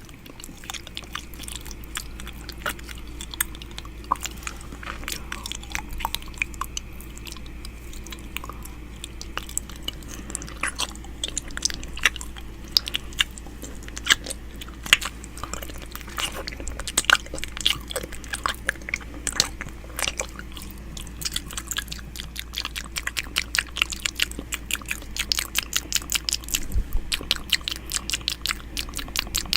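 ASMR ear-eating mouth sounds close to the microphone: a continuous run of wet clicks and smacks. The clicks come faster and closer together near the end.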